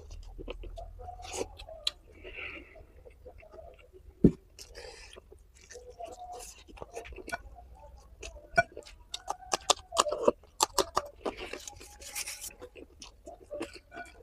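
Close-miked eating of rice and curry: wet chewing and lip smacks with crunchy bites and many small clicks, and one sharp click about four seconds in.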